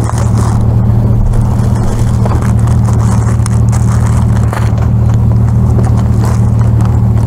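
A motor vehicle's engine running at a steady idle, a loud even low hum. Over it come faint rustles of plastic-wrapped snack packs being handled.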